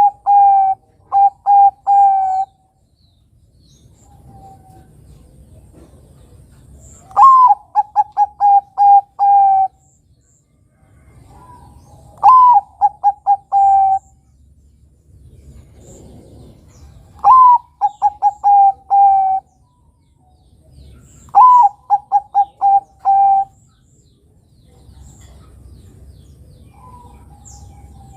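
Zebra dove (Bangkok perkutut) cooing in repeated song phrases every four to five seconds. Each phrase opens with a higher note and runs into a quick string of five or six short coos.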